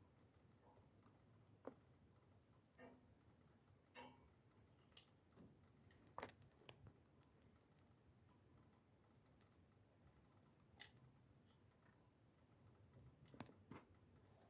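Small wood fire crackling faintly, with sharp, irregularly spaced pops of burning wood over a low, steady hiss.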